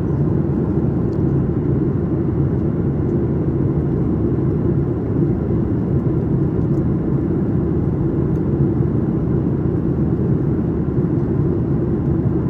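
Steady cabin noise inside a Boeing 737-900ER in flight: its CFM56-7B turbofan engines and the airflow over the fuselage make an even, constant rumble, heaviest in the low end.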